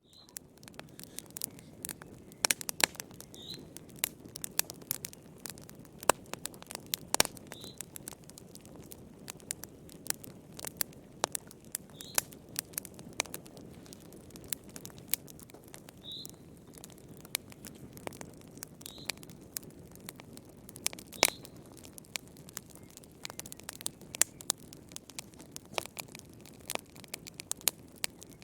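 Wood fire crackling and popping, with sharp irregular snaps over a soft steady hiss. A bird gives a short high chirp every few seconds.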